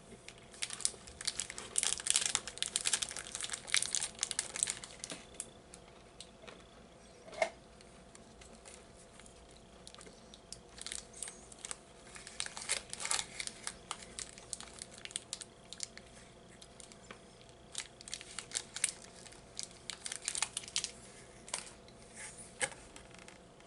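Crunchy chewing of a chocolate-coated hazelnut wafer bar with cream filling, heard as spells of quick crackling crunches with quieter pauses between them.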